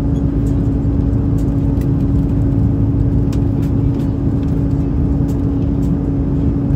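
Steady cabin noise of an Airbus A330-300 in flight: an even rumble of engines and airflow with a constant hum, and a few faint ticks.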